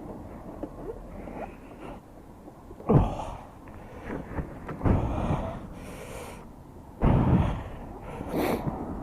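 Microphone noise: a few loud, low rumbling bursts about two seconds apart, from wind or handling on the microphone, over a low background.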